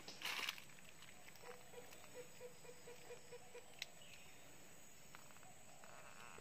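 Faint forest ambience: a brief rustle at the start, then a run of about nine short low notes at an even pace, about four a second, and a single sharp click a little after the middle.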